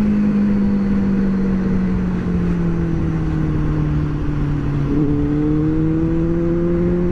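Benelli motorcycle engine and exhaust under way, holding a steady note that sinks slowly as the throttle eases, then rises again from about five seconds in as it picks up speed. A broad rushing noise runs under it.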